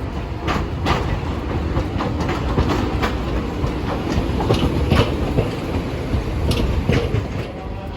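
Hiroshima Electric Railway streetcar running on the tracks: a low rumble with a run of irregular clacks and knocks from its wheels over the rail joints and points.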